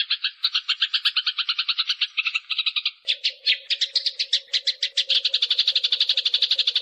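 Eurasian tree sparrows fighting: a dense, rapid run of harsh chirps, about eight to ten a second, getting louder and more even near the end. A steady low hum comes in about halfway through.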